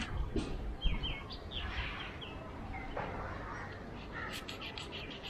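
Birds calling: a run of short, high, down-slurred notes, then a quick series of sharp chirps near the end.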